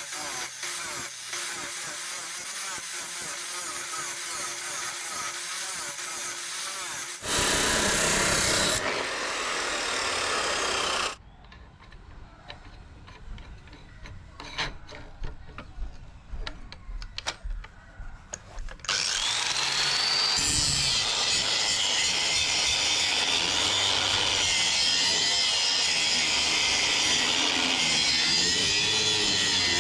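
Power tools working steel, in several short takes cut together: steady grinding noise that changes level at each cut, with a quieter stretch of scattered clicks in the middle.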